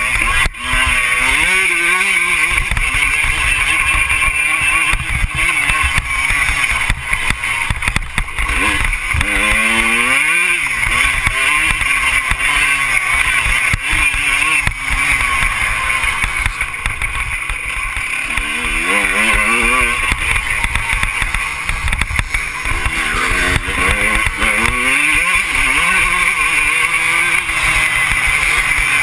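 Motocross bike engine revving up and down again and again as it is ridden, with heavy wind buffeting on the microphone.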